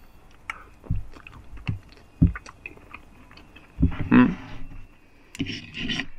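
A person eating from a plate or pot: chewing, with several knocks of a utensil and a louder, briefly pitched sound about four seconds in.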